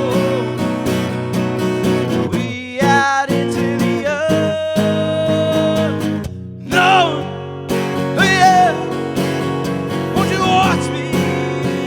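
Acoustic guitar playing a country-style song, with held and bending melodic notes over the strumming.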